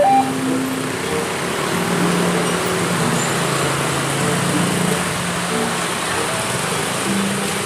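Steady rumble and hiss of vehicle noise, with faint music notes underneath.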